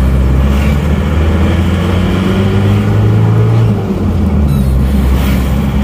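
Isuzu Panther diesel engine heard from inside the cabin while driving, pulling with a steady low drone that eases and dips briefly about four seconds in. The engine is freshly rebuilt with new piston rings and seals, and its sound is typical of the box-bodied Panther.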